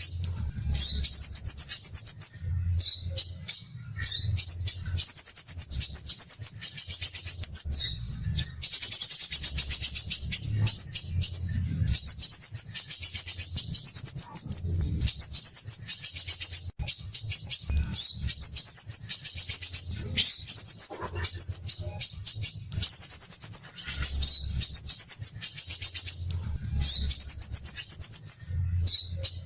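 Crimson sunbird (sepah raja) singing its rough, tightly packed chattering trill ('besetan kasar rapat'): rapid high-pitched notes in phrases of a second or two, with short breaks, repeated over and over.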